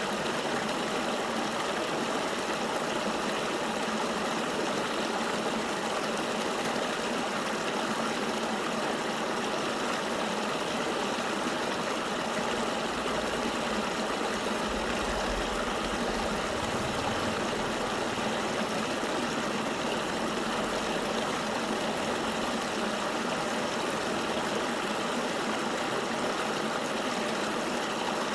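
Flowing river water, a steady, even rush with no breaks.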